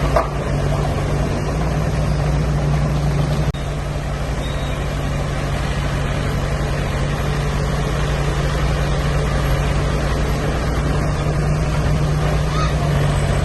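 Heavy diesel engine of earthmoving machinery running steadily at an even pitch, with a brief break about three and a half seconds in.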